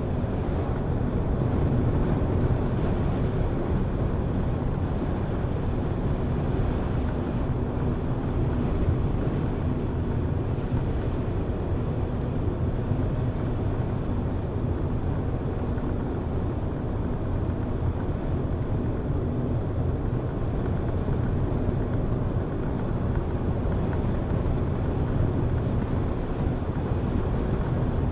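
Car driving steadily along a road: a constant low engine hum under tyre and road noise, with no changes in pace.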